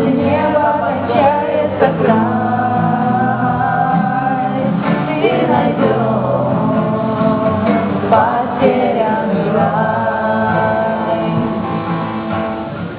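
Voices singing a song, with the sung melody running throughout.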